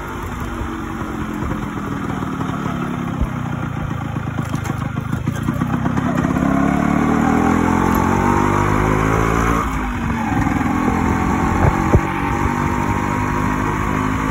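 Yamaha RX100's two-stroke single-cylinder engine pulling the motorcycle along, its pitch and loudness rising steadily as it accelerates, then dropping suddenly about ten seconds in before running on steadily.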